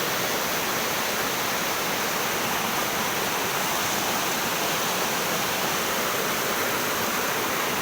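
Swollen river rushing steadily, its water running high and fast from the rainy season.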